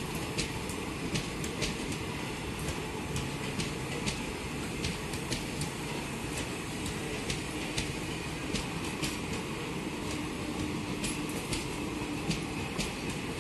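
Indian Railways passenger coaches running past a platform: a steady rumble of wheels on rail, with sharp wheel clicks over the rail joints coming about once or twice a second.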